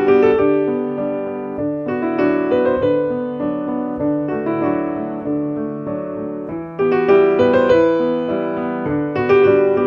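Background piano music: a slow, gentle melody over chords.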